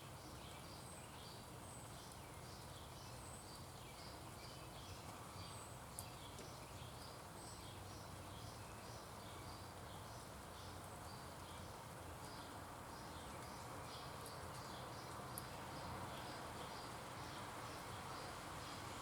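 Small birds chirping over and over, about two short chirps a second, with an occasional fainter high peep, over a steady low background hum.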